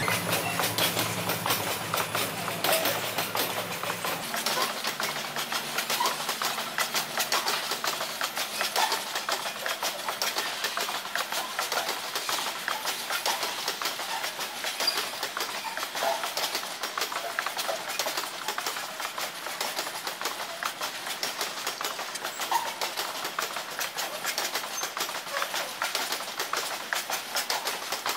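Loaded grain hopper cars of a freight train rolling past, with a steady rattle and clicking of wheels over the rails. The low hum of the diesel locomotives fades out over the first few seconds.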